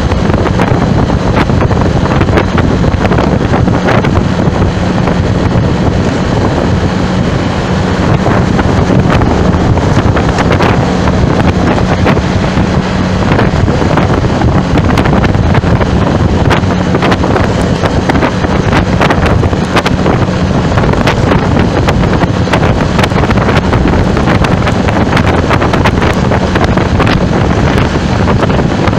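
Loud, steady wind buffeting a microphone that is moving through traffic, with crackling gusts and a steady low hum underneath.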